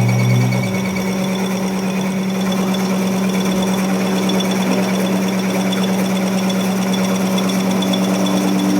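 A workshop machine running steadily with a constant hum, used in repairing a heavy-vehicle wheel hub.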